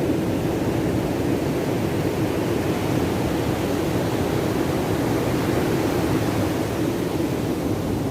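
Steady drone of a motorcycle on the move, engine and wind noise rushing over the microphone without a break.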